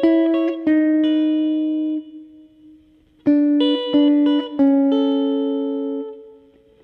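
Music: a plucked guitar playing two short melodic phrases, each ending on a held note that dies away, with a brief pause between them.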